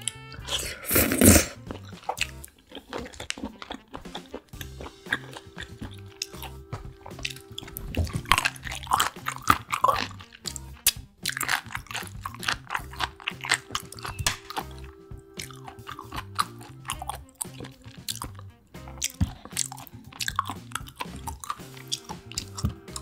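Close-miked eating sounds: crunchy biting and chewing in clusters, loudest about a second in, over soft background music.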